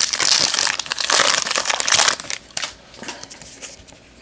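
A baseball card pack wrapper being crinkled and torn open by hand, loud for about two seconds, then quieter rustling and handling of the cards.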